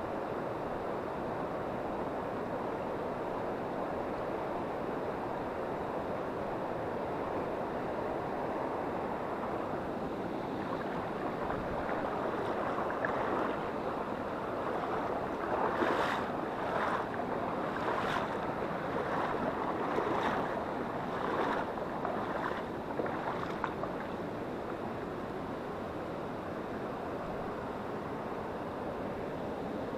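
Steady rushing of a mountain river over stones. Over it, from about halfway through, comes a run of short sharp noises for some ten seconds.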